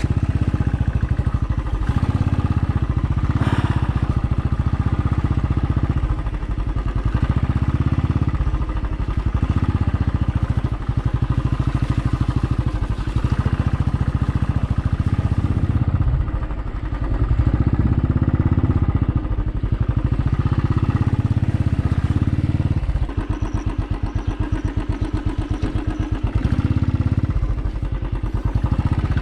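Motorcycle engine running as the bike is ridden, its pace easing off and picking up again several times; the engine's firing pulses come through plainly in a softer stretch a little past two-thirds of the way in.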